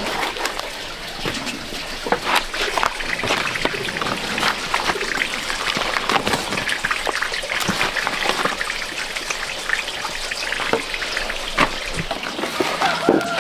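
Water trickling and splashing, with many small clicks and taps throughout.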